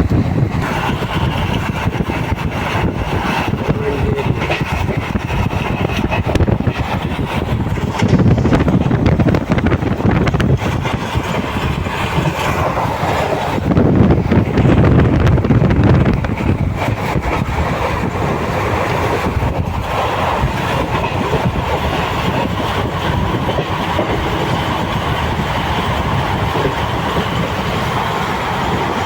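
Express passenger train running at speed, heard from on board: a continuous rumble of wheels on the rails that grows louder twice, about 8 and 14 seconds in, with a faint steady whine in the second half.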